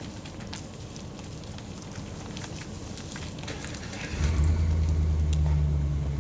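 Crackling and scattered ticks, like tyres creeping over rock and gravel. About four seconds in, a truck engine rises to a louder, steady low drone and holds there.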